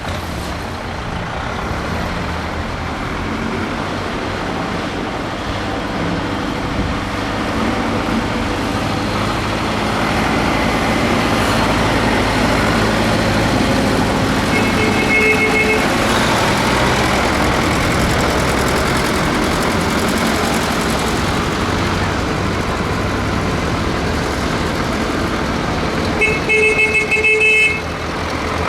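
Tractor engines running steadily as tractors drive past. A horn toots briefly about halfway through, then sounds again, louder and pulsing, near the end.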